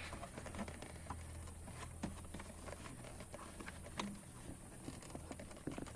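Faint, scattered taps and knocks of hard plastic being handled as an ATV's air filter box is pressed back into place, over a steady low hum.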